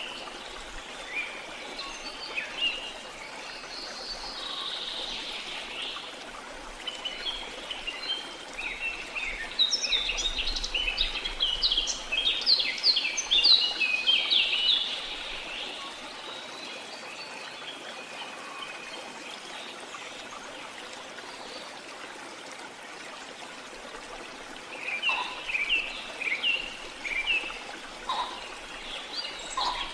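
Birds chirping and calling over a steady trickling stream, with a dense flurry of quick chirps about ten seconds in and another near the end.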